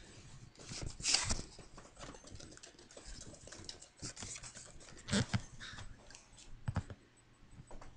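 Irregular rustling, scratching and clicking, with louder scuffs about a second in and again about five seconds in.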